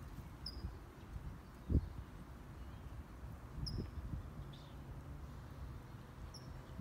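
A bird gives a short high chirp three times, about three seconds apart. Under it are soft low thumps, one louder thump about two seconds in.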